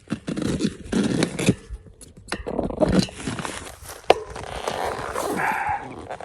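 Irregular scraping and rustling, with a few sharp clicks and knocks scattered through.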